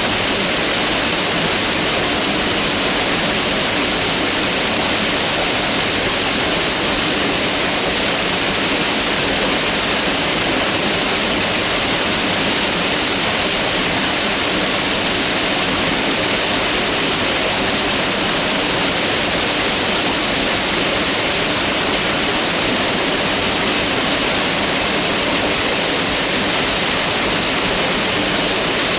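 Mountain river rushing over rocks: a steady, even roar of fast water that does not change.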